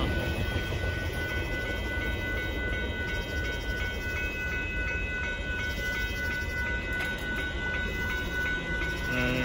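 Union Pacific freight grain train rolling past a grade crossing: a steady rumble of cars on the rails. Over it sounds the crossing's warning bell, a steady high ringing that alternates in pitch about twice a second.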